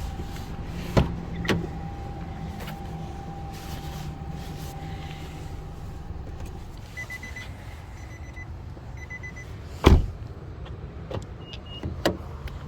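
Car sounds: a steady low motor hum for the first several seconds, sharp clicks (the loudest near the end), and a short run of high electronic beeps in the middle.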